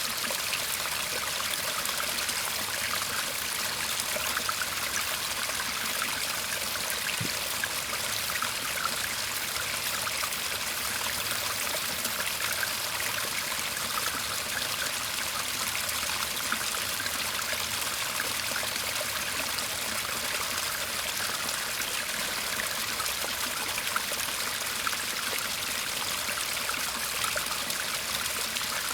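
Small garden stream babbling and trickling steadily, an even rush of water with no break.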